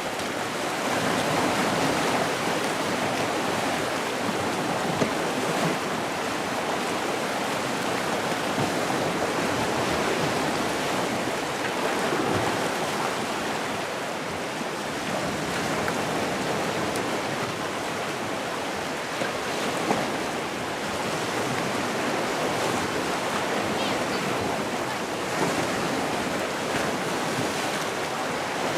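Sea waves breaking and washing on a shore in a steady, gently swelling surf.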